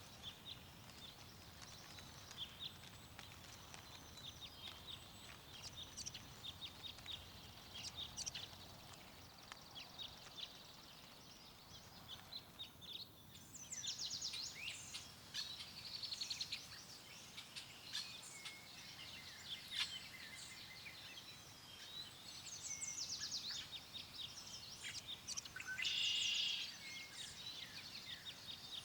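Songbirds chirping and trilling over a faint steady hush of wind. The calls grow busier about halfway through, with a louder buzzy call near the end.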